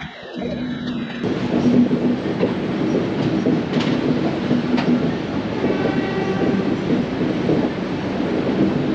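Express train running along the track: a steady rumble with the clack of wheels over rail joints, starting about a second in.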